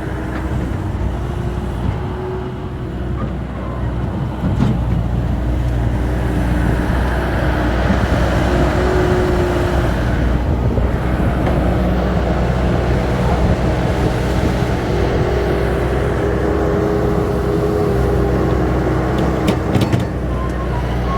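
Diesel engine of heavy earthmoving machinery running steadily, with a fainter tone that wavers in pitch at times and a few sharp clicks near the end.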